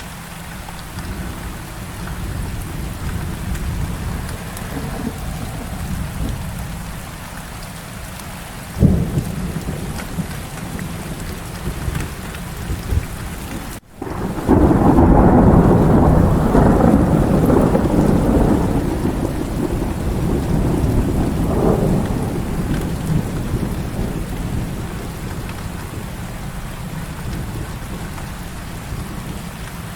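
Heavy rain falling steadily, with thunder: a sharp crack about nine seconds in, then, after a momentary dropout, a long loud rolling rumble starting near the middle that fades over about ten seconds.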